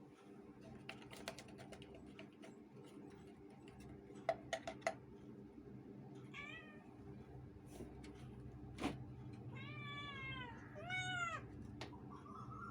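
Domestic cats meowing: a faint short meow about halfway through, then two louder drawn-out meows, rising and falling in pitch, close together, and another starting near the end. A few sharp clicks or taps come earlier, over a steady low hum.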